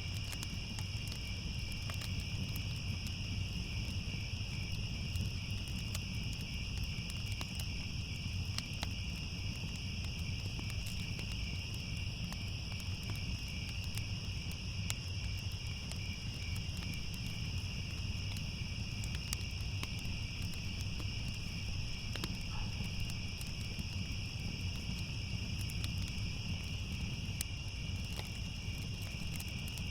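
Steady, unbroken chorus of crickets trilling at night. Faint scattered crackles, like a wood fire, and a low steady rumble sit underneath.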